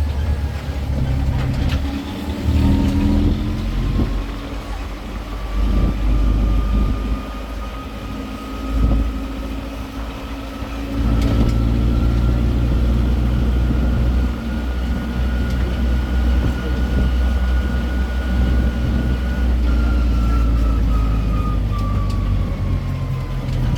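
Tourist road train's engine running as it drives, with a thin whine that slowly rises in pitch, holds, and falls again near the end.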